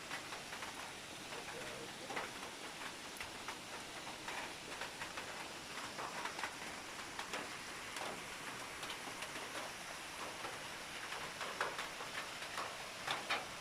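Steady patter of rain, many small drops with a few louder taps near the end.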